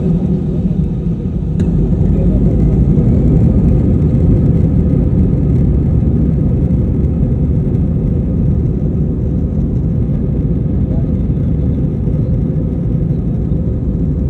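Jet airliner cabin noise during takeoff: a loud, steady rumble of engines and airflow that swells a little about two seconds in and then holds.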